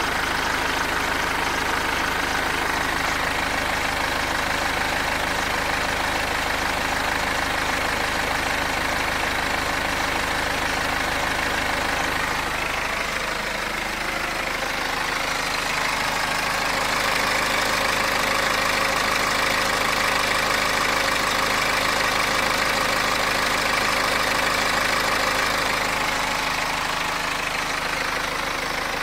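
BMW X3 F25 2.0-litre N47 diesel engine running steadily at idle, with the noise that the owner suspects comes from the timing chain. About thirteen seconds in the low hum drops away and the mid-range gets louder.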